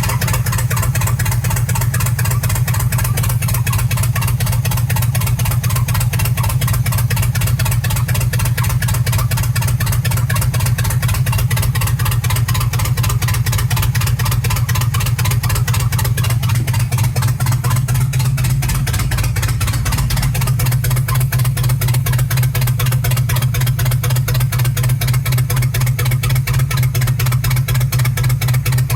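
Chevy 350 small-block V8 running at idle, misfiring on several cylinders even though compression is good. Its note shifts slightly about two-thirds of the way through.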